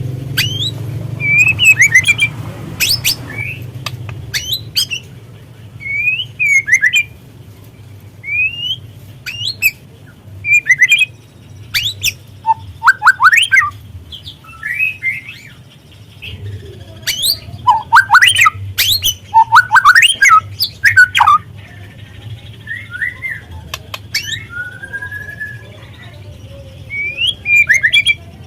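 White-rumped shama (murai batu) singing in short, varied phrases. The song mixes quick upslurred whistles, sharp rapid clicking notes and lower fluting notes, with brief gaps between phrases. A steady low hum runs underneath.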